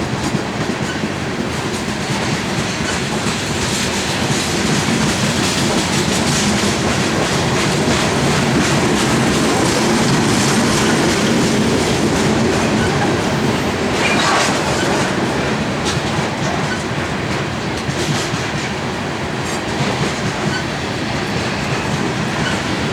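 Loaded coal train cars rolling past at speed, a steady rumble of steel wheels on rail with continuous clickety-clack over the rail joints. A short, higher-pitched scrape of wheel on rail comes about two-thirds of the way through.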